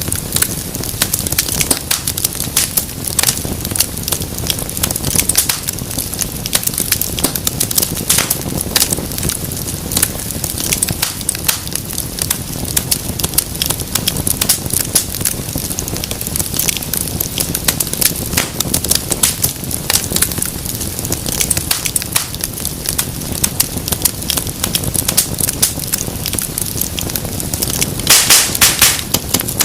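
Wood fire crackling steadily, with dense irregular pops and snaps over the low rush of the flames. A quick run of louder pops comes near the end.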